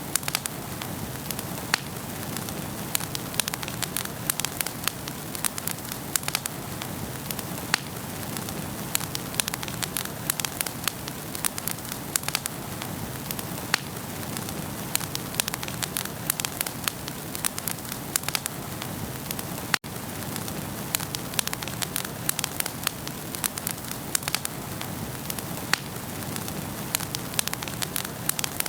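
Wood fire burning in a fireplace, crackling and popping steadily over a soft hiss. It cuts out for an instant about two-thirds of the way through.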